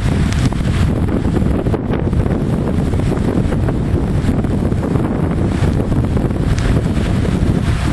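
Wind buffeting the microphone: a loud, constant low rumble that flutters without letting up.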